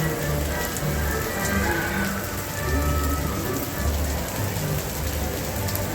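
Steady rain falling, with faint music underneath.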